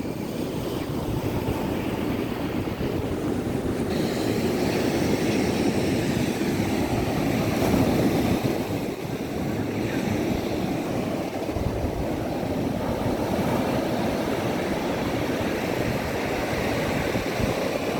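Sea surf washing onto a beach in a steady rush, with wind rumbling on the microphone.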